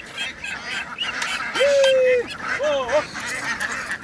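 A flock of ducks quacking and chattering. About a second and a half in, a loud, drawn-out call holds steady, followed by two short calls that rise and fall.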